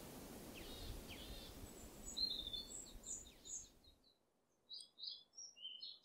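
Faint chirping of small birds: short high calls repeating from about two seconds in, over a low steady background hiss that drops away about four seconds in.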